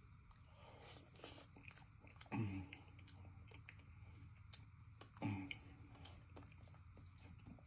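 Close-miked chewing of a mouthful of cheesy pasta, with small wet mouth clicks throughout and two louder, short low sounds about two and a half and five seconds in.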